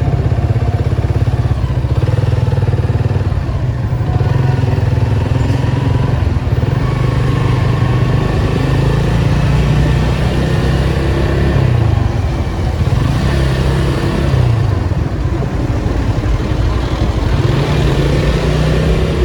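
Datsun 280Z's 2.8-litre straight-six engine and exhaust running at low revs in slow traffic, its note rising and falling a couple of times as it pulls away, near the middle and again near the end.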